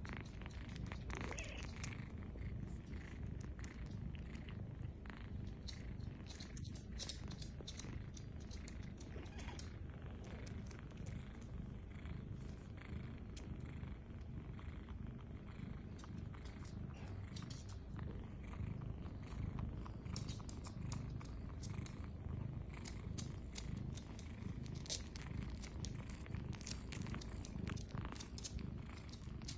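Cats purring with a steady low rumble while kittens nurse, with many small clicks scattered through from the kittens suckling.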